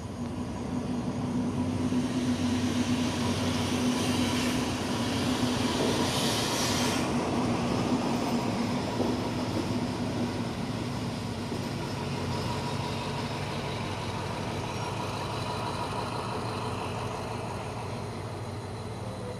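Diesel-locomotive-hauled passenger train of the State Railway of Thailand rolling into the station: a steady engine rumble with a low hum. A hiss rises from about four seconds in and stops suddenly at about seven seconds.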